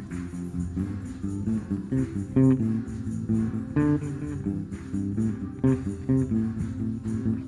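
Live worship band playing an instrumental passage: electric bass and guitar chords, no singing.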